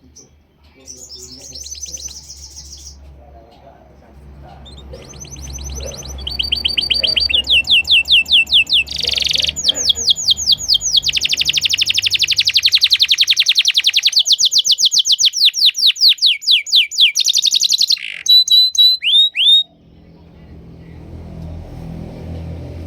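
Canary singing a long song of fast trills and rapid rolling note series that switch from one tour to the next, stopping abruptly near the end. A low rumble runs underneath and is plainer once the song stops.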